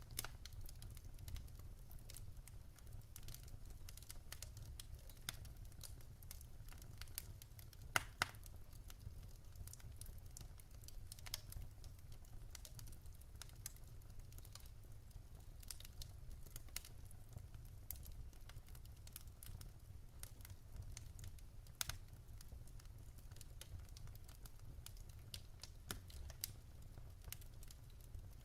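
Wood fire crackling in a fireplace: a steady stream of faint pops and snaps with a few sharper pops, the loudest about eight seconds in, over a low steady rumble.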